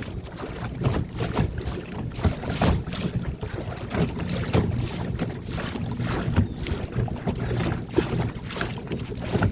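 Wind buffeting the microphone in uneven gusts, with choppy water slapping against the boat's hull.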